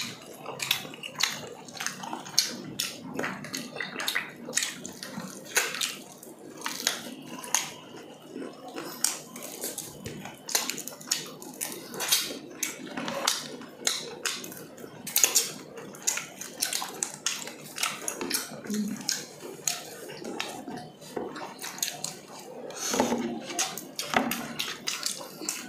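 Chewing and lip-smacking of two people eating grilled chicken and rice by hand: a steady, irregular run of short mouth smacks and clicks.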